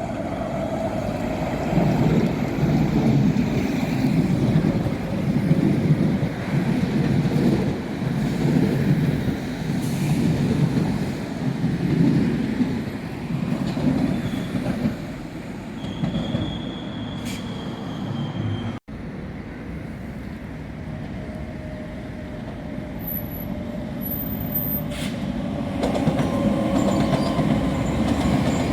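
A train running past on the rails with a heavy, surging rumble, and a short high squeal about two-thirds of the way through. The sound breaks off abruptly for an instant, then continues steadier and builds again toward the end.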